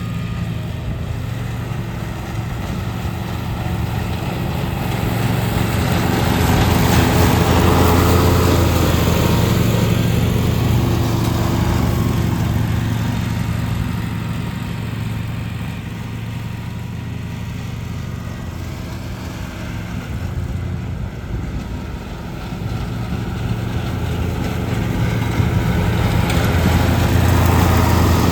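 Petrol lawn mower engine running steadily. It grows louder and fainter as the mower moves nearer and farther, loudest about a quarter of the way in and again near the end.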